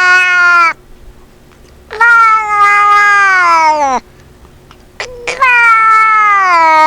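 Cat meowing in long, drawn-out meows, each about two seconds and sliding down in pitch. One meow trails off just under a second in, a second one comes about two seconds in, and a third starts about five seconds in.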